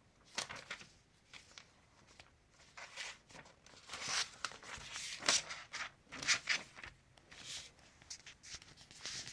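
Paper rustling and crackling as the pages of an instruction booklet are handled and turned, in a string of irregular bursts.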